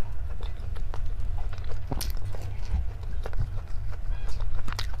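A person chewing and biting food close to the microphone: irregular wet mouth clicks and smacks, over a steady low hum.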